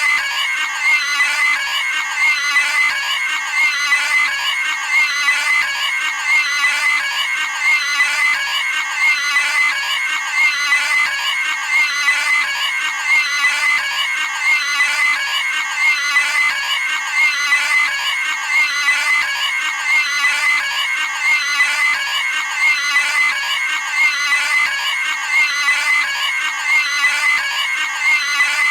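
Cartoon pig screaming sound effect: a high-pitched squealing scream looped back to back, the same scream repeating at a steady pace.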